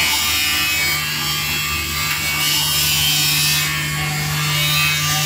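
CNC engraving machine's spindle running and its cutter working a silver plate: a steady hum under a continuous high, hissing cutting noise.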